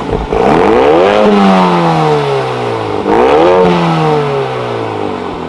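Mercedes-AMG A35's turbocharged four-cylinder revved twice through a Fi Exhaust valvetronic cat-back with catless downpipe. Each time the pitch climbs quickly and then falls away slowly as the revs drop.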